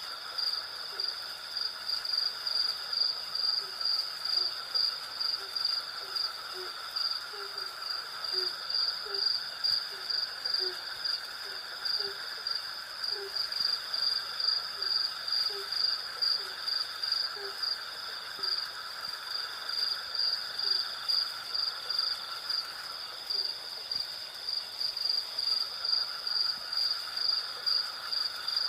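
Night insect chorus: crickets chirping in a steady, pulsing rhythm over a continuous hum of other insects. Through the first two-thirds, a series of short, low hooting calls repeats irregularly, then stops.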